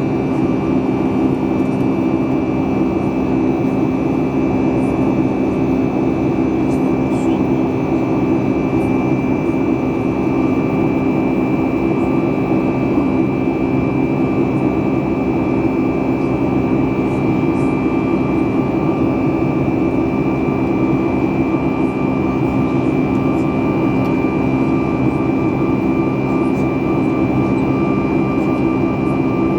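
Cabin noise of a Boeing 737 MAX 8 in flight: its CFM LEAP-1B jet engines and the airflow make a steady, loud drone, with a deep hum and a thin high whine held at an even pitch.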